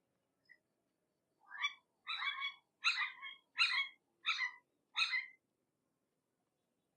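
A hawk calling: six short, high calls in a quick series, starting about one and a half seconds in.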